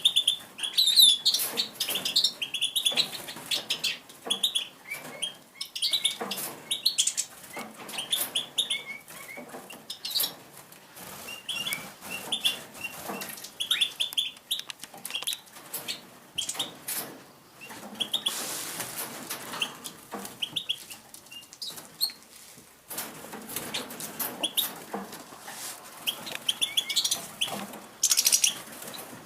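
Pine grosbeaks chirping repeatedly in short calls and fluttering their wings, with scattered rustles and clicks, and a louder rush of wingbeats about two-thirds of the way through.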